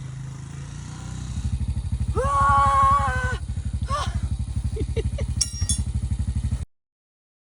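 A small engine running, its note turning into a louder, even pulsing a little over a second in as it is throttled up. A long held call sounds over it for about a second, with shorter calls after. The sound cuts off suddenly near the end.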